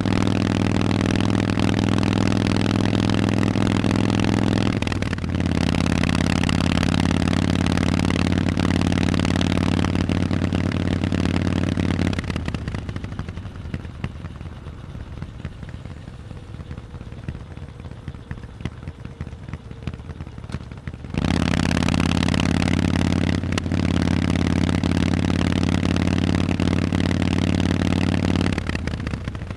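Harley-Davidson Forty-Eight's 1200 cc Sportster V-twin through loud Vance & Hines exhausts, pulling under throttle while riding, with a brief break in the note about five seconds in. Around twelve seconds the throttle closes and the exhaust drops to a much quieter, crackly note for about nine seconds. It then comes back loud abruptly, breaks briefly once more, and drops off again near the end.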